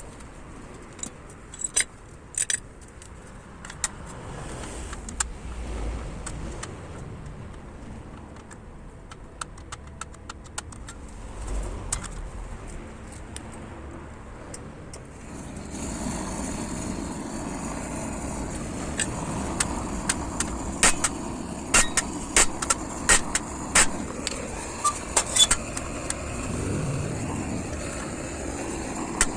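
Hammer striking a warped metal fire-pit grate to straighten it: sharp metallic strikes, scattered at first, then coming in quick runs in the second half. A steady rushing noise starts about halfway and runs under the strikes.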